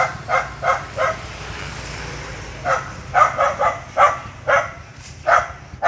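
A dog giving a string of short, pitched yips and barks, about three a second at first, then a pause of a second or so, then more at an uneven pace.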